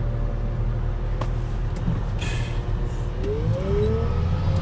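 A vehicle engine runs steadily, with a single click about a second in and a whine that rises in pitch from about three seconds in.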